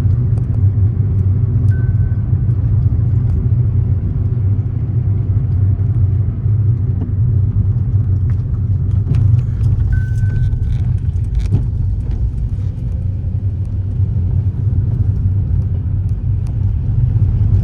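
Steady low road and engine rumble of a vehicle travelling along a highway, heard from inside, with two brief high beeps, one about two seconds in and one about ten seconds in.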